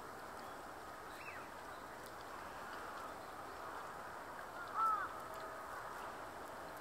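Steady outdoor background hiss with birds calling among the waterfowl on a pond. There is a faint high falling call about a second in and a short, clearer call nearly five seconds in, the loudest sound in the stretch.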